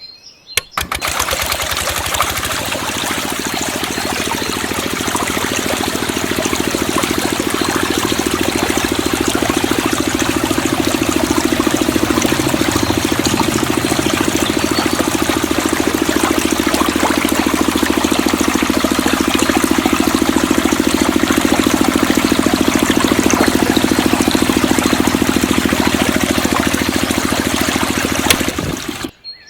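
Small engine-driven water pump running steadily with water rushing through it. The sound starts about a second in and cuts off suddenly near the end.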